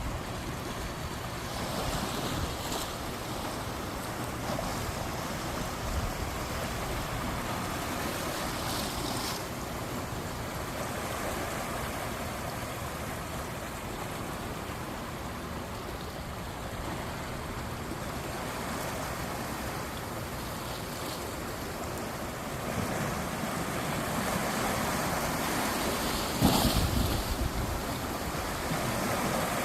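Sea waves washing in, a continuous surf that swells and ebbs, with one louder wave surging in near the end.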